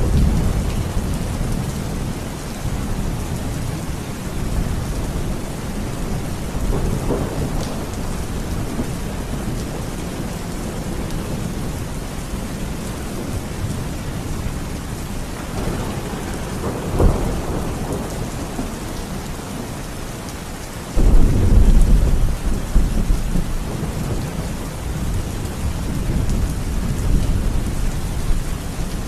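Thunderstorm: steady rain with low rolling thunder. A short sharp crack comes past the middle, and about two-thirds through a sudden loud thunderclap breaks in and rumbles on for several seconds.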